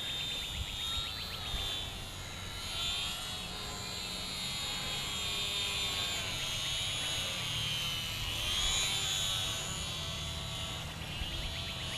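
HobbyZone Carbon Cub S2 RC airplane's electric motor and propeller whining in flight, the pitch wavering up and down as the plane turns and changes distance under power.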